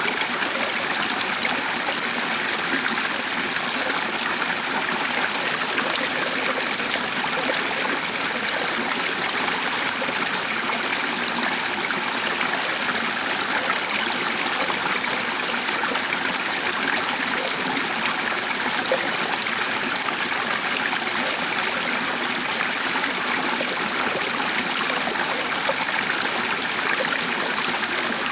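Stream of water running, a steady, even rush of flowing water that does not change.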